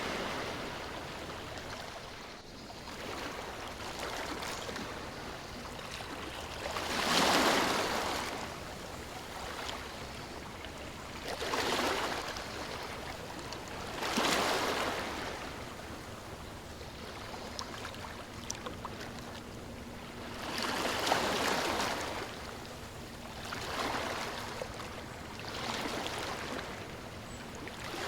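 Ocean waves washing in over a steady rush of water. The surf swells and ebbs every few seconds, with the largest surge about a quarter of the way through.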